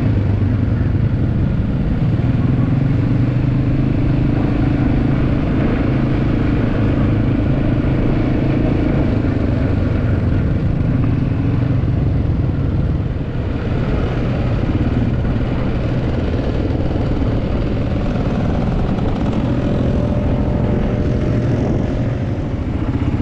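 Quad bike (ATV) engine running steadily while riding along, a low, continuous engine note with a brief easing about thirteen seconds in.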